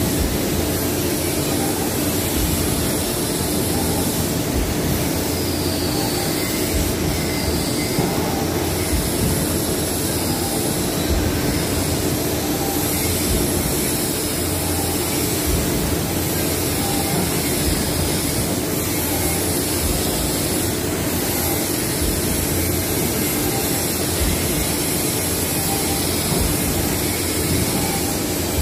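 Industrial machinery running steadily, a constant mechanical noise with a steady hum and a faint wavering high whine.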